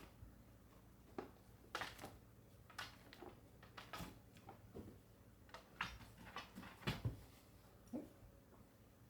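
A dozen or so irregular light knocks and clicks, the handling sounds of objects being set down and moved, the loudest pair about seven seconds in.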